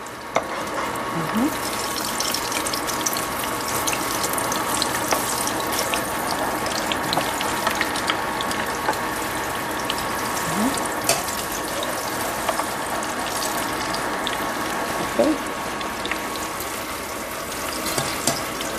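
Battered plantain fritters frying in hot oil in a nonstick skillet: a steady sizzle full of small crackles and pops, with a metal slotted spatula now and then scraping and turning them in the pan.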